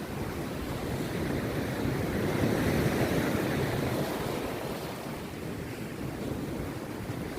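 Rough sea surf breaking and washing onto the beach. One surge swells to its loudest about two to three seconds in, then ebbs before the next wave builds near the end.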